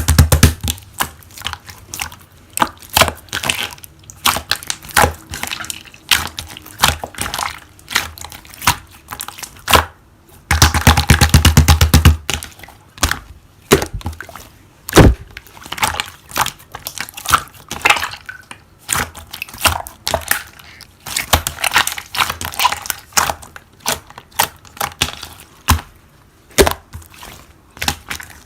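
Slime being squished and kneaded by hand, making quick runs of crackling clicks and pops, with denser bursts near the start and about ten seconds in.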